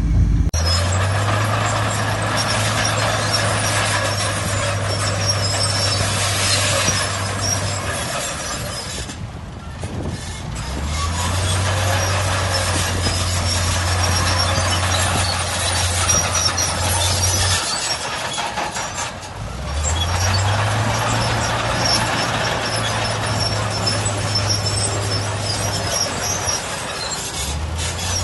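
Diesel engine of a Shantui crawler bulldozer working in repeated spells of about six to seven seconds, easing off briefly between them, over a constant metallic clatter and squeal of the steel tracks.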